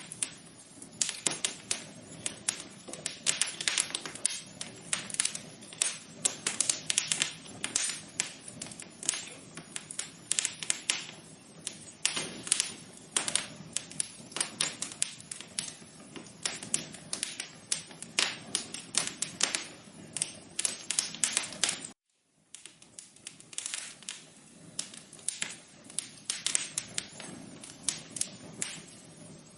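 Wood fire crackling in a fireplace: a dense, irregular run of sharp pops and snaps over a low steady rush of flame. The sound cuts out completely for a split second about two-thirds of the way through.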